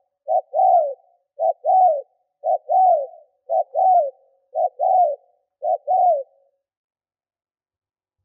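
Spotted dove cooing a quick series of two-part coos, a short note followed by a longer arched note, about one a second, six times over; the cooing stops about six seconds in.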